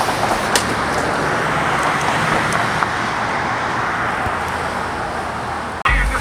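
Steady vehicle and traffic road noise. Near the end it cuts off suddenly, and a loud, deep bass sound starts.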